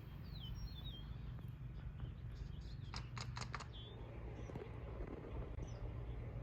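Several short bird chirps, mostly near the start and a couple later, over a steady low rumble of wind on the microphone. A quick run of sharp clicks comes about three seconds in.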